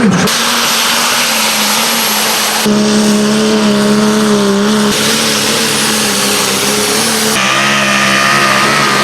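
Pulling tractor engines running hard at high, steady revs, heard in several short segments that change abruptly about a third of the way in, about halfway, and again near the end.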